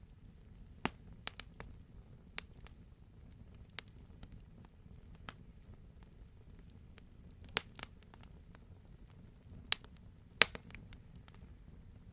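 Wood fire burning with a steady low hiss, scattered sharp crackles and pops from the burning logs; the loudest pops come about a second in and again near the end.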